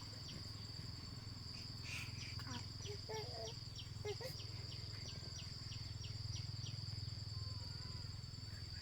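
Insects calling steadily, a continuous high trill with a quick run of short chirps at about four a second, over a low steady hum. A few faint short calls come in around three and four seconds in.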